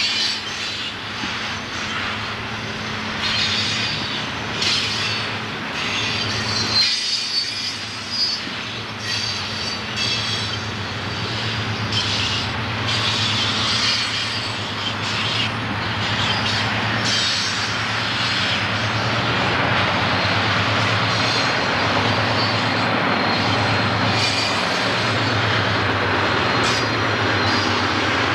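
Freight train rolling around a curve, its wheels squealing against the rail, over the steady drone of Conrail diesel locomotives. The drone grows louder toward the end as the locomotives come close.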